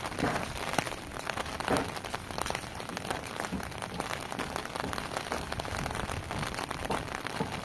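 Steady rain falling on hard, wet surfaces: a dense hiss made of countless small drop ticks, with a few louder ticks in the first two seconds.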